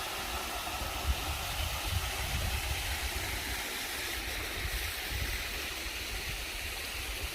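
Rushing water of a woodland stream and waterfalls: a steady, even hiss, with an uneven low rumble underneath.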